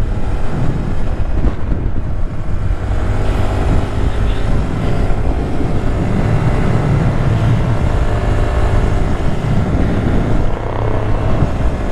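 Wind buffeting the microphone of a Honda Grom motorcycle at road speed, a steady low rumble, with the bike's small single-cylinder engine running steadily underneath.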